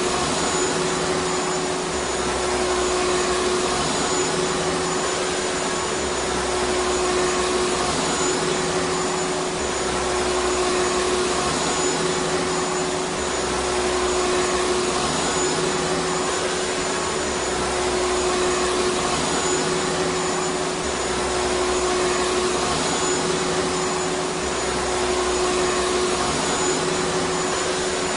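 Vacuum cleaner running continuously, a steady rushing motor noise with a constant whine, its low hum swelling and fading slightly every few seconds.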